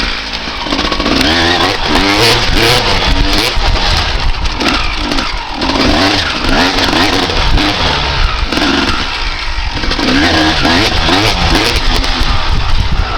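1995 Honda CR250R's single-cylinder two-stroke engine being ridden hard, revving up and falling back again and again as the throttle is opened and shut, with brief dips when the throttle is closed.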